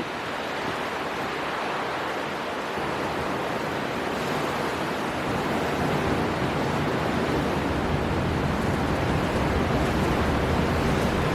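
Storm wind blowing with rushing sea surf: a steady rushing noise that slowly swells, its low rumble growing toward the end.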